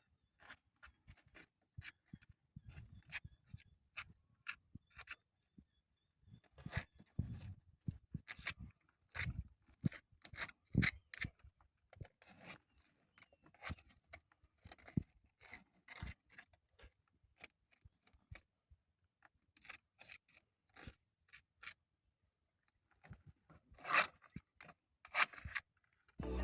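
Trowel scraping and pressing mortar into the joints between bricks: many short, irregular scrapes and light taps, with small pauses between them.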